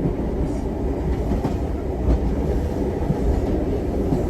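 Jacobite steam train's carriages rolling along the track: a steady low rumble with occasional clicks of the wheels.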